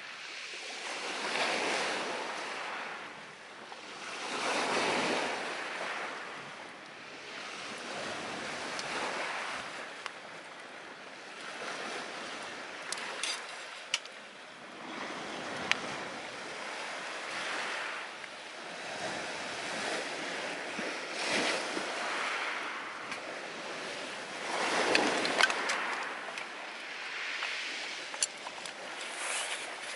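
Sea waves washing onto the shore in slow swells every few seconds, with sharp crackles and pops from a wood fire now and then, most of them in the second half.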